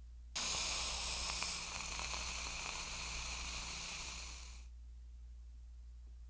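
Steam iron pressed tip-down on a cloth over a dent in solid wood, hissing as it forces steam through for about four seconds; it starts suddenly and fades away. The steam is swelling the crushed wood fibres to lift the dent.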